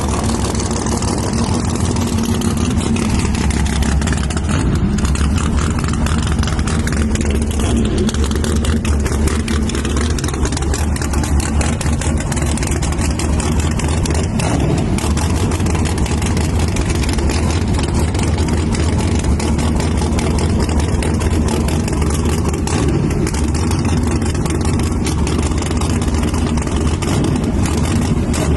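A race vehicle's engine idling steadily, with no clear revving.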